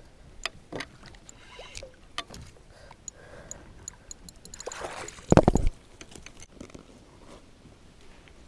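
Scattered clicks and knocks of a fish and gear being handled aboard a kayak, with one louder thump about five seconds in.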